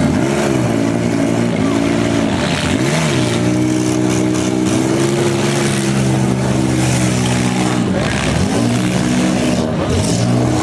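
Engines of several compact demolition-derby cars revving up and down as they accelerate and manoeuvre on the dirt, the pitch rising and falling repeatedly with sharp dips about half a second, three seconds and eight seconds in.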